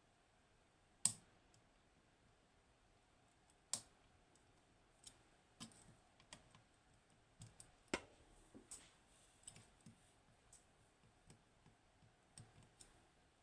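Small metallic clicks and ticks of lock picks working the pins of a Hori Trident high-pin-count lock. Three sharp clicks fall about one, four and eight seconds in, with many fainter ticks between them in the second half.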